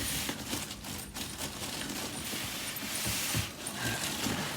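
Packaging rustling and scraping as a new upright vacuum is pulled out of its box and handled, uneven and rising and falling, with a few light knocks.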